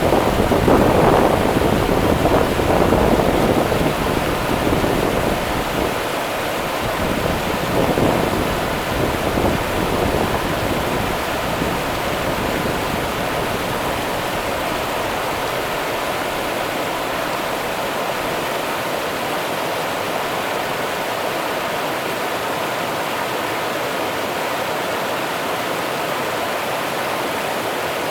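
Rio Grande river water rushing steadily, an even hiss of flowing water. A louder, uneven low rumble in the first few seconds settles by about six seconds in.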